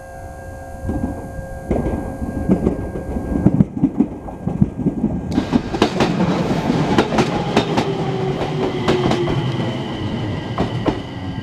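Enshu Railway 2000-series electric multiple unit approaching and passing close by, its rumble building and then giving way to rapid wheel clicks over the rail joints from about five seconds in. A whine from the train falls slowly in pitch as it goes by.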